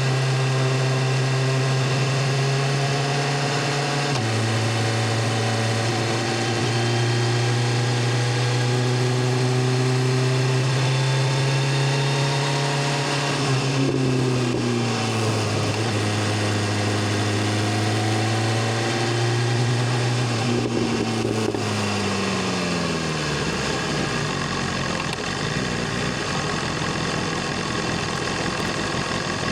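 BMW S1000RR's inline-four engine and exhaust running under way at steady revs, with a drop in pitch about four seconds in like an upshift. Later the revs dip and climb again, then fall away in a long glide as the bike slows to low revs.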